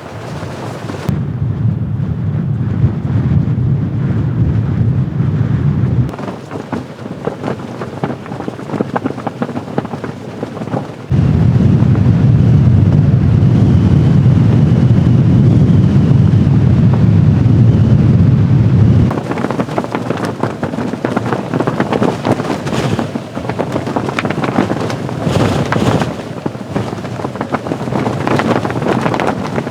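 Strong blizzard wind blowing and buffeting the microphone, with a heavy low rumble in stretches that start and stop abruptly.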